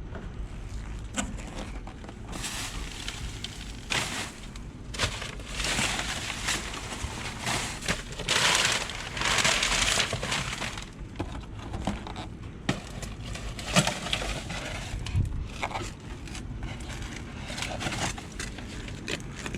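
Trash being rummaged through by hand: plastic bags and packaging rustling and crinkling, with scattered knocks and clatters of objects being moved. The heaviest crinkling comes about eight to ten seconds in.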